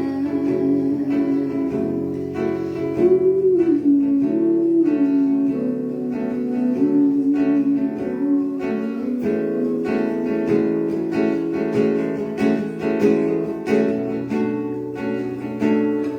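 Acoustic guitar strummed in a steady rhythm, an instrumental passage between sung verses of a devotional song. A sustained melody line glides over the chords in roughly the first half, and the strumming carries on alone after that.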